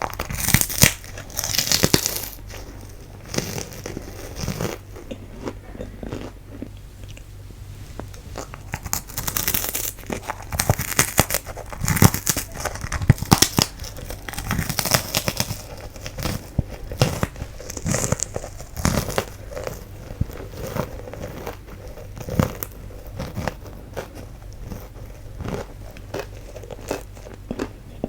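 Biting and chewing fu-gashi, a light puffed wheat-gluten snack, close to the microphone: irregular soft crunches and crackles, densest near the start and through the middle.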